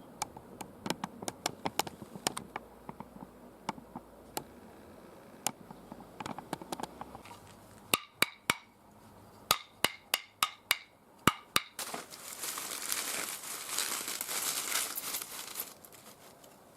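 Oak twigs snapping and clicking, with a run of louder sharp cracks in the middle, followed by a few seconds of crinkling rustle.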